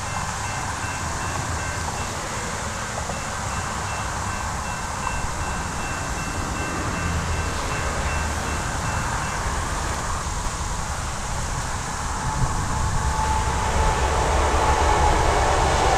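Distant approaching train led by an ex-Amtrak EMD F40PH diesel locomotive: a low rumble that grows louder over the last few seconds as the train nears.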